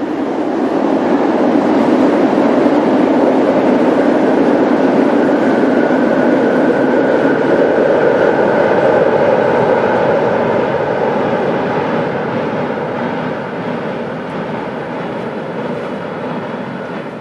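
Passenger train hauled by an AEM-7 electric locomotive passing close by. Its rumble swells over the first couple of seconds, holds steady, then slowly fades over the last several seconds.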